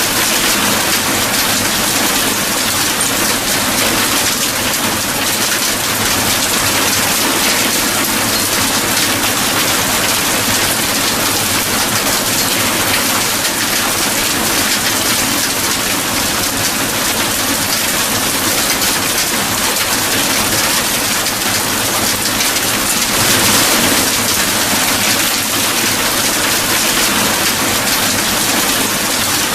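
Steady, loud rain falling, an even hiss of drops, swelling briefly about two-thirds of the way through.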